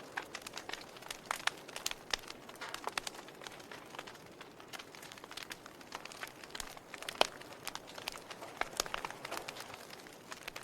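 Wood logs burning in a fireplace, crackling with irregular snaps and pops over a soft hiss; one sharper pop about seven seconds in.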